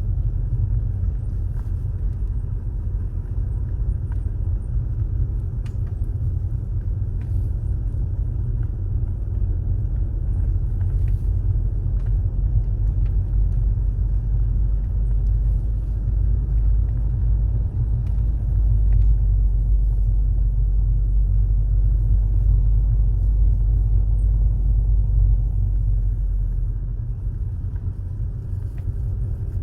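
Car driving along a road: a steady low rumble of engine and tyres that grows louder about two-thirds of the way through, then eases near the end.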